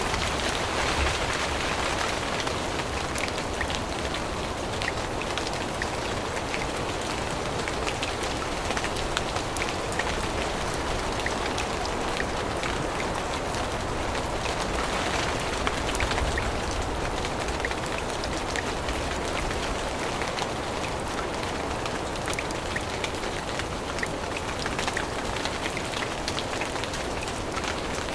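Steady rain falling in a forest, with many separate drops ticking close by. It swells a little about a second in and again about halfway through.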